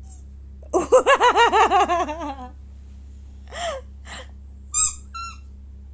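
A burst of giggling laughter, about eight quick pulses a second, fading after a second and a half. A few short high squeals follow near the end.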